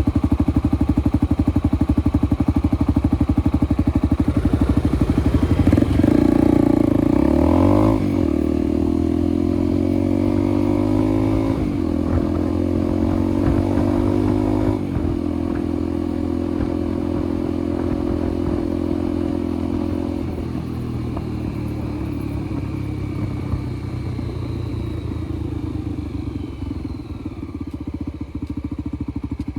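Honda Tornado 250's single-cylinder motorcycle engine accelerating through the gears. Its pitch climbs and drops sharply at three upshifts, then it runs at a steady cruise and eases off near the end.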